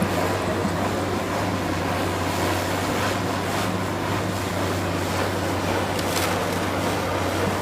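Heavy demolition machinery's engine running steadily at an even pitch over a noisy rumble, with a few faint knocks.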